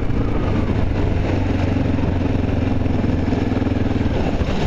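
Honda XR650L's air-cooled single-cylinder four-stroke engine running at a steady pace while riding, with wind rushing over the microphone.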